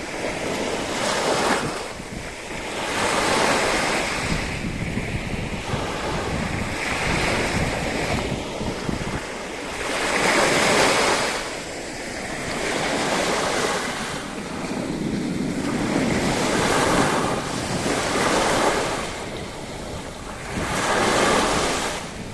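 Sea waves washing onto the shore, the surf rising and falling every few seconds, with wind rumbling on the microphone.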